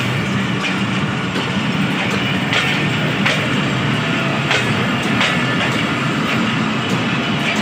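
Pakistan Railways passenger coaches rolling past close by: a steady rumble of wheels on rail, with sharp clickety-clack clicks, often in pairs, as the bogies cross the rail joints.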